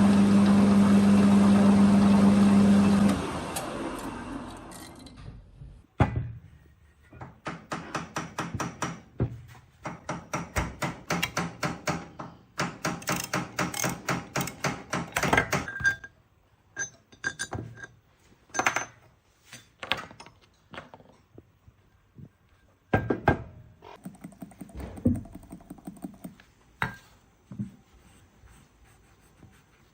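Metal lathe running with a steady hum while facing an Austin 7 cast-iron cylinder head. It is switched off about three seconds in and winds down. Then come quick runs of metallic clicking and scattered knocks of tools and metal being handled.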